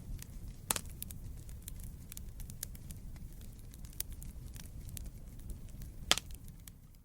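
Wood fire burning in a fireplace: a steady low rumble of flames with continuous small crackles, and two louder sharp pops, one just under a second in and one near the end.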